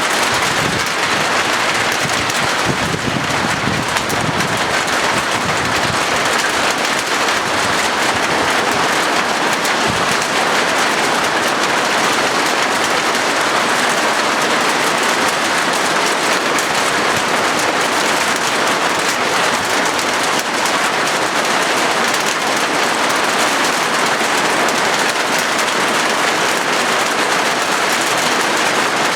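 Heavy rain drumming on a corrugated zinc roof: a dense, steady patter of countless drops on the metal sheet.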